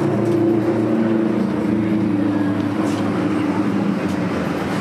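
Street traffic: a motor vehicle's engine humming steadily, its pitch sinking a little before it fades out about three and a half seconds in.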